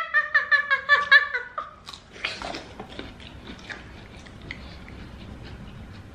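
A high voice pulsing quickly for about a second and a half, then soft chewing and small wet clicks of people eating a seafood boil close to the microphone.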